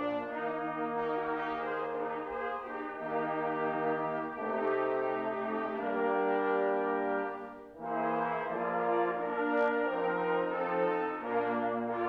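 Brass instruments playing slow, held chords that change every second or two, with a short break about eight seconds in.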